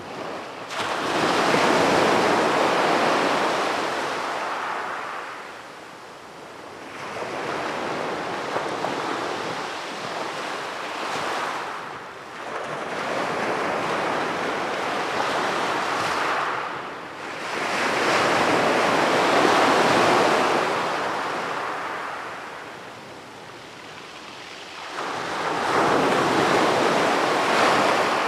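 Sea waves breaking and washing up on a beach, coming in slow surges of hiss that swell and fade about five times, one every five or six seconds.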